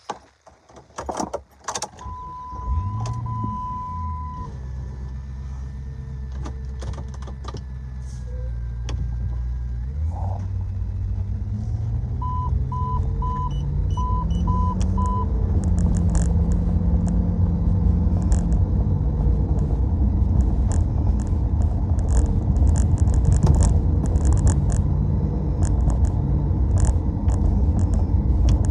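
A few clicks and a dashboard chime, then a V8 car engine starts about two seconds in and idles. About ten seconds in the car pulls away, the engine note rising in steps through the gears while a chime beeps six times. It then settles into steady driving with a loud low rumble.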